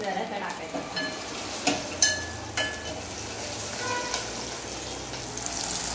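Cumin seeds, garlic and green chillies sizzling in hot oil in a stainless-steel pot, the tempering (tadka) for dal, while a steel ladle stirs them. The ladle clinks against the pot several times, with a brief ring.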